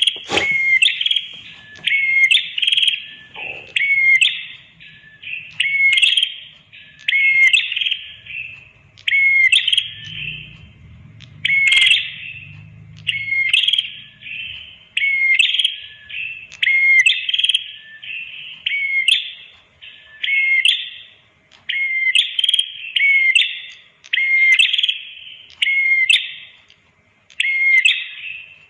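Prenjak kepala merah (red-headed prenjak) singing: short, sharp, high chirping phrases repeated about once a second, with small gaps between them.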